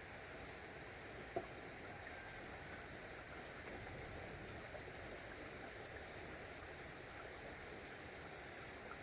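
Steady rain hissing, with a few separate drops ticking on a surface; one sharper drop about a second and a half in.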